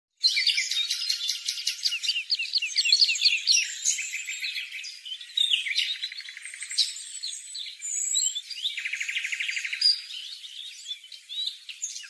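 Birds chirping: a busy mix of quick, high chirps and twitters overlapping one another, with a fast trill a few seconds before the end.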